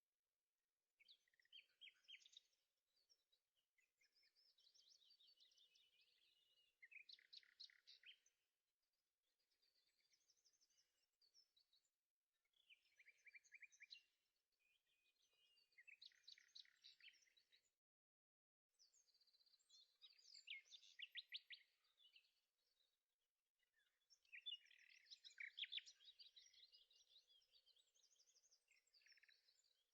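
Faint birdsong: repeated chirps and quick trills in short phrases with brief pauses between them.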